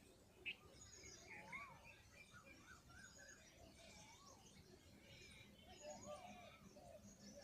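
Faint chirping of several small birds: short whistled notes that rise and fall, every second or so, over higher twittering. There is a brief sharp click about half a second in.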